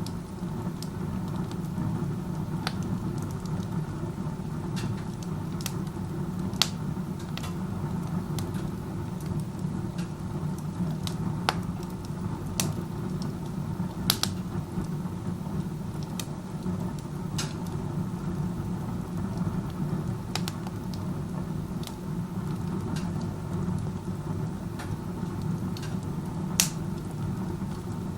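Wood stove burning with its door open like a fireplace: a steady low rush of air drawn hard up the chimney, with scattered sharp pops and crackles from the burning wood.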